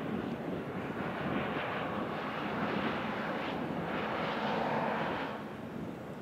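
Diesel train running across a stone arch viaduct, a steady rumble that swells slightly, then drops off about five seconds in as the train leaves the bridge.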